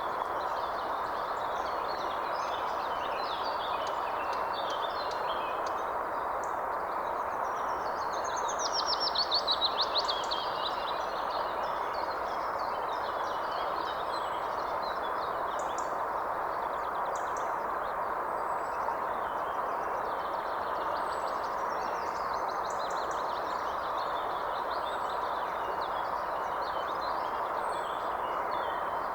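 Many birds calling and chirping over a steady rushing background noise, with one louder rapid trill about a third of the way in.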